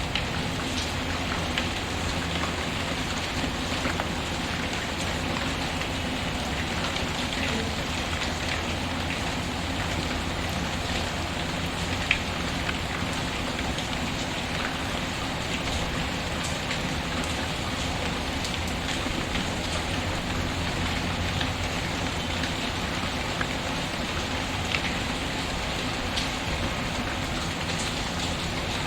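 Steady rain pattering, mixed with the scattered crackles and pops of a wood fire, one pop louder about halfway through.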